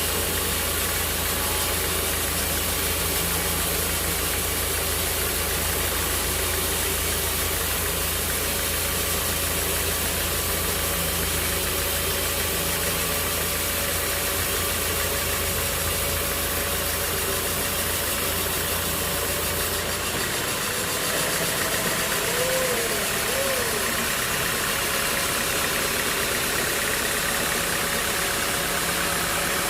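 An engine running steadily with a constant mechanical noise; its deep low rumble drops away about two-thirds of the way through. Soon after, two short rising-and-falling whistle-like tones sound.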